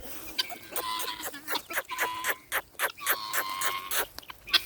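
Chickens clucking in a run of short repeated calls, mixed with sharp crackling clicks.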